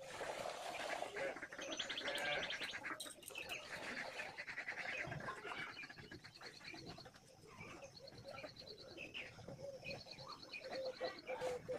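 Birds chirping, with fast repeated trills and short calls throughout.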